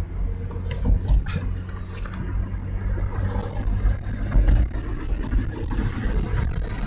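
Car being driven, heard from inside the cabin: a steady low engine and road rumble with a few light knocks.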